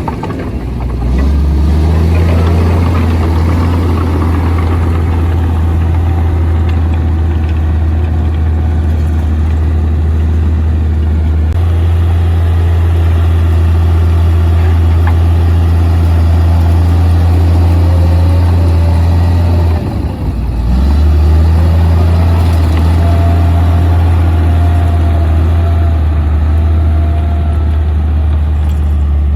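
Komatsu D58P bulldozer's diesel engine running under load with a strong, steady low drone. It drops briefly near the start and again about twenty seconds in, then picks back up. A fainter higher whine rises and falls over it.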